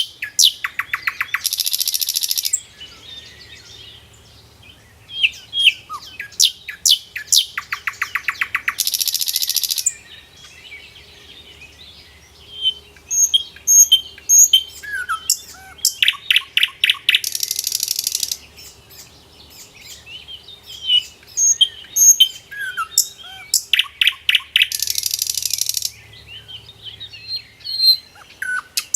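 Songbirds chirping and singing, with one song phrase repeated about every eight seconds: a fast trill that runs into a buzzy burst lasting about a second. Short scattered chirps fill the gaps between.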